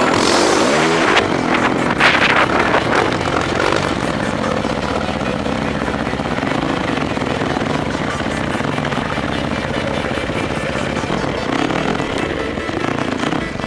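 Dirt bike engine running as the bike is ridden, with a short rising rev about half a second in.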